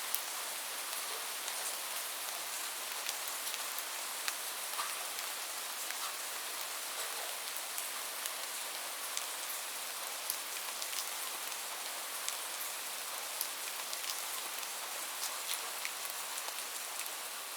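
Steady rain falling, an even hiss with frequent sharp drop ticks scattered through it.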